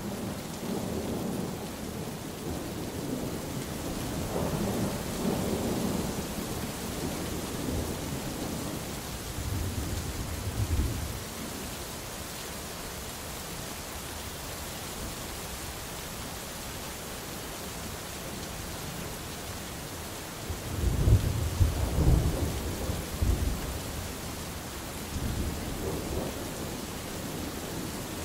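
Steady rain falling with rolls of thunder: low rumbling in the first third, then a louder, sharper thunderclap about two-thirds of the way in that rumbles off over a few seconds.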